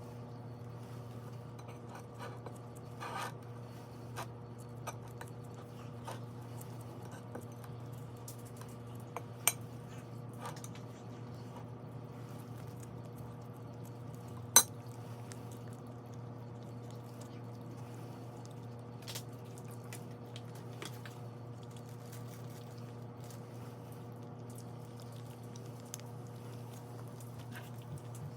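A few sharp clinks of dishes and utensils being handled, the loudest two about nine and fourteen seconds in. Under them runs a steady low hum.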